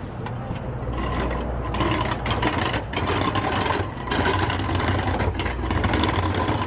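A vehicle engine pulling uphill in four-wheel drive, with a steady low drone under heavy tyre and road noise and frequent rattles.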